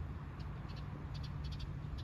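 A small bird chirping from the bushes: short, high, doubled chirps repeated every few tenths of a second, over a low steady outdoor rumble.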